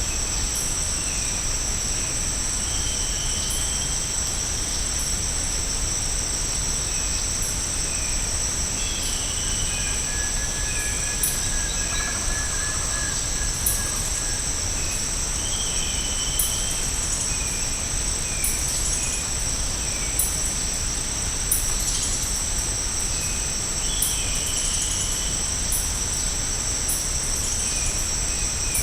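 Tropical rainforest ambience: insects droning steadily at a high pitch, with short bird calls and chirps scattered throughout and one longer whistled note about ten seconds in.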